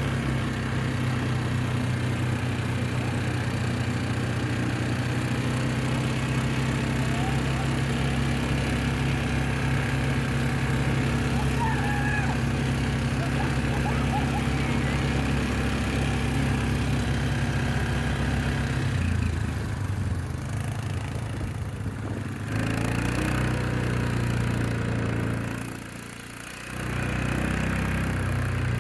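An engine running steadily. Its tone shifts about two-thirds of the way through, and it quietens briefly near the end before picking back up.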